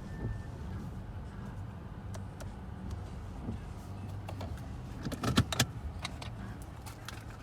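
Car on the move: steady low road and engine rumble inside the vehicle, with scattered light clicks and rattles and a louder burst of clicking about five seconds in.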